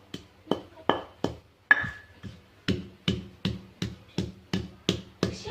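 Knife chopping on a cutting board: a steady run of sharp knocks, about three a second, quickening slightly a little over halfway through.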